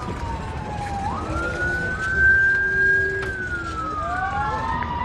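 Emergency vehicle sirens wailing, several at once, their tones rising and falling slowly and crossing one another, over a low steady rumble.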